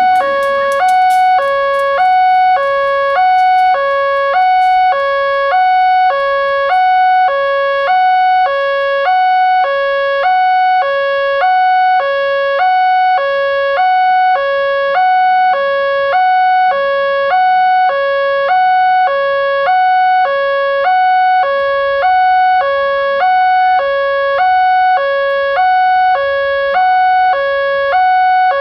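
Electronic warning alarm of an Indonesian railway level crossing, sounding steadily as a two-tone chime that alternates between a lower and a higher note about once a second, over a steady higher ring.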